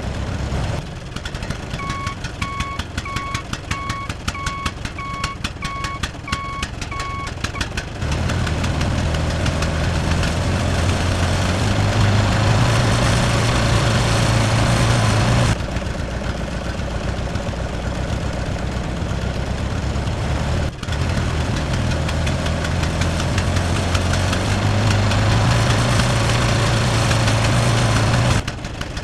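Tractor engine running, with a reversing alarm beeping about nine times in the first few seconds. Then the engine runs louder and deeper, its pitch climbing twice as it revs up.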